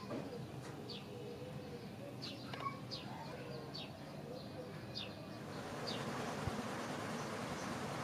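Small birds chirping outdoors: a few short, high, falling chirps spaced irregularly over quiet village ambience, with a faint steady hiss coming up past the middle.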